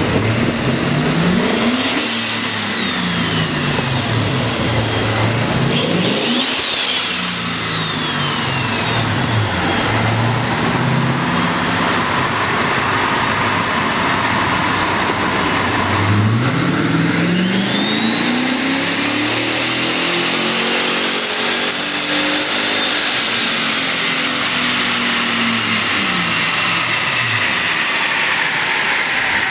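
Turbocharged Toyota Tundra 5.7L V8 at wide-open throttle on a chassis dyno. The engine revs climb and drop sharply at each automatic upshift, ease off in the middle, then climb through the gears again. A high, rising turbo whine is heard during the second pull.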